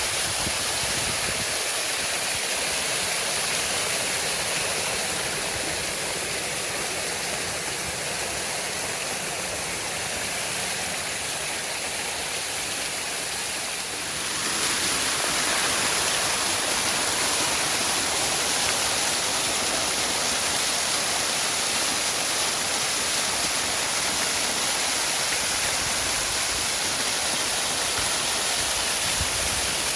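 Waterfall rushing in a steady, even roar of falling water. It steps up louder and brighter about halfway through.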